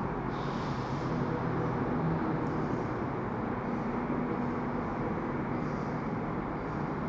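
Steady rumble and low hum of a train, as heard trackside, with no sudden events.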